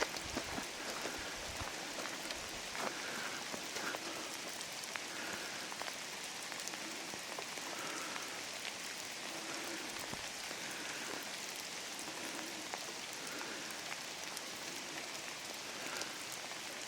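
Steady rain falling in a redwood forest: an even hiss with many scattered single drops ticking.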